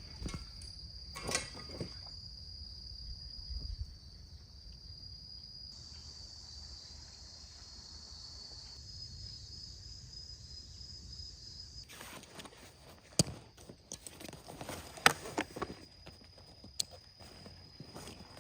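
Insects trilling steadily at a high pitch, with a low outdoor rumble beneath. About two-thirds of the way in, a run of sharp clicks and knocks starts.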